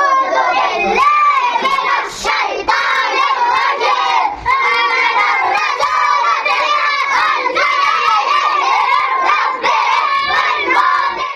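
A group of young children's voices together, loud and overlapping, with no single voice standing out; it stops abruptly at the end.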